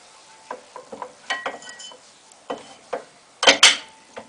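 Irregular small metallic clicks and knocks of tools and brake parts being handled, with two loud clanks in quick succession about three and a half seconds in.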